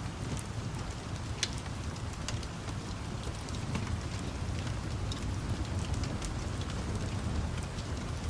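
Steady rain with a low rumble underneath, and the sharp, scattered pops of a crackling wood fire, a few each second.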